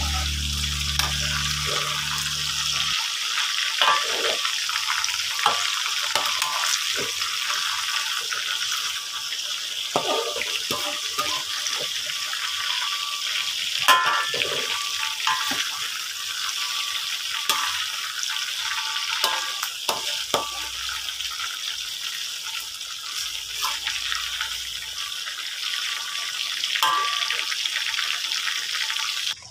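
Flour-coated chicken livers frying in hot oil in a wide metal pan: a steady sizzle with no popping or spattering, since the flour coating keeps the livers from bursting. A metal spatula scrapes and knocks against the pan now and then.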